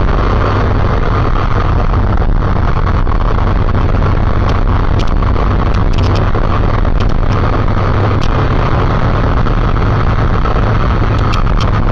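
Steady loud rush of wind and engine noise on a camera riding along on a motorcycle at speed, with a few faint ticks about halfway through and near the end.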